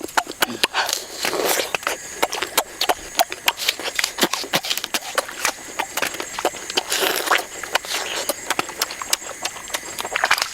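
Rapid, irregular sharp clicks and knocks, several a second, with a few short rustling smears.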